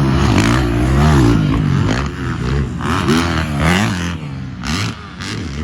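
450 dirt bike engine being revved in a series of quick throttle blips, the pitch rising and falling several times, then dropping back to a quieter idle near the end.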